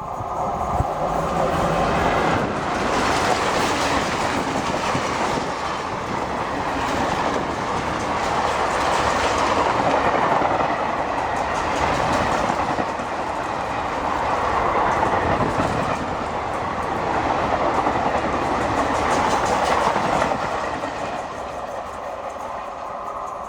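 Express train passing at speed, about 110 km/h: a loud, continuous rush of wheels on rail with clickety-clack over the rail joints. The sound swells and eases every few seconds as the coaches go by.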